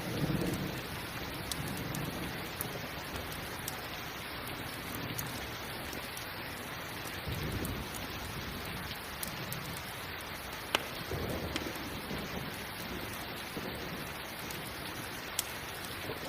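Steady rain falling, with low rumbles of thunder swelling up a few times and occasional sharp crackles and pops from a campfire.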